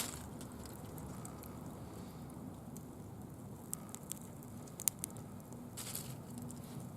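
Small bonfire crackling: scattered sharp snaps and pops over a low steady background, with one louder pop a little before five seconds and a short rush of noise about six seconds in.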